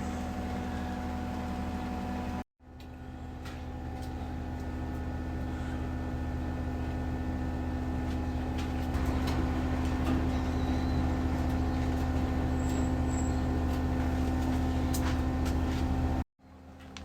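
A steady mechanical hum made of several fixed low tones, with a few faint clicks. It cuts out abruptly about two and a half seconds in and again near the end, and fades back in each time.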